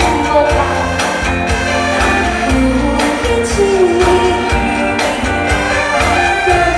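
A singer performing an upbeat Mandarin pop song live over a backing track with a steady beat.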